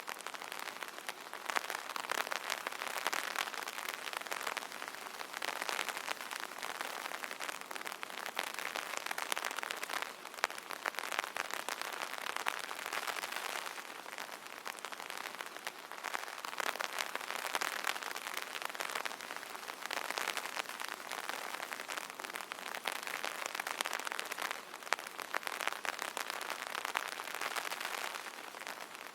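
Rain pattering on an umbrella canopy: a dense, steady patter of drops ticking on the fabric, swelling and easing slightly every few seconds.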